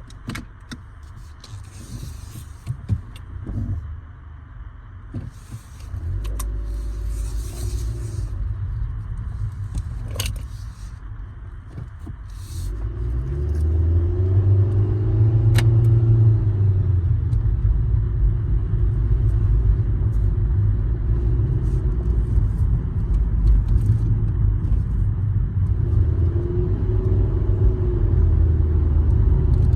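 A car's low rumble that grows louder about halfway through and then holds steady, with scattered clicks and knocks before it.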